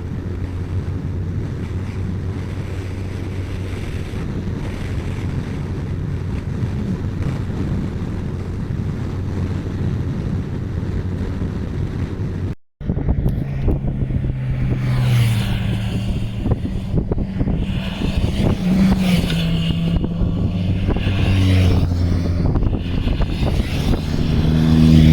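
Kawasaki ZZR1400 inline-four engine running at steady cruise under wind noise; after a brief dropout about halfway, the engine pitch rises and falls as the throttle changes.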